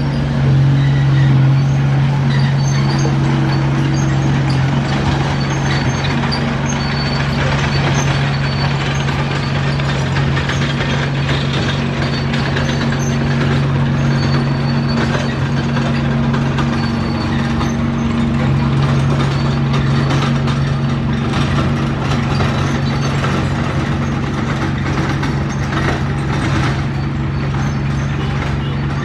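Bulldozer's diesel engine running steadily under work, with scattered faint high clicks and squeaks over it.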